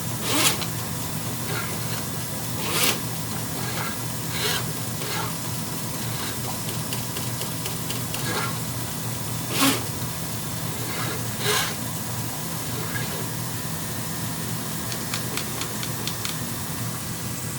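Electric Flexi-Rodder FRE drain cleaner running steadily, its motor humming and hissing as the spinning wire works through a blocked drain pipe. Sharp knocks come every few seconds, the loudest about ten seconds in.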